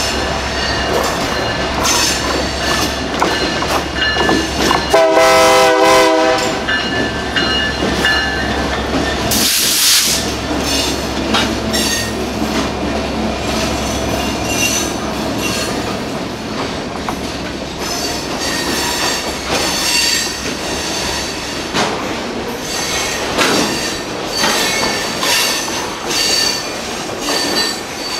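A train at a grade crossing: the locomotive horn sounds a blast of about a second roughly five seconds in. A brief hiss follows near ten seconds, then the train rolls past with wheels clicking over the rail joints and squealing.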